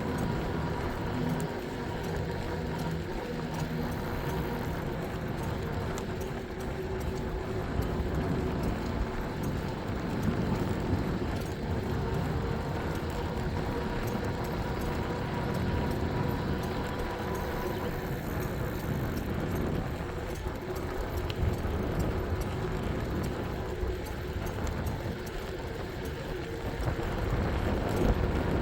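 Ride noise from an e-bike under way: a steady rumble of wind and tyres, with a faint steady whine running through it.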